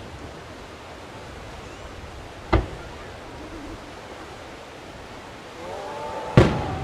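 Two aerial firework shells bursting, each a single sharp boom, about four seconds apart, the second louder, over a steady hiss of background noise.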